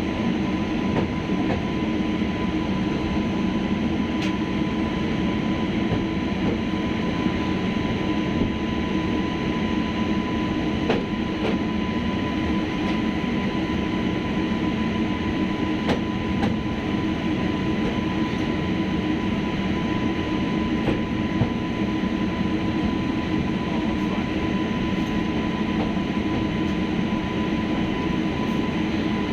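Train running steadily on the rails, a continuous rumble with a constant whine and occasional faint clicks from the wheels.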